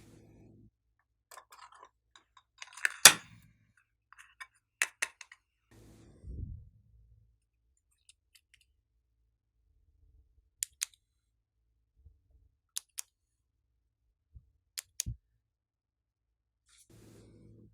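Slime being handled and mixed with small items: scattered sharp clicks and short crackles, the loudest a cluster about three seconds in, with quiet gaps between.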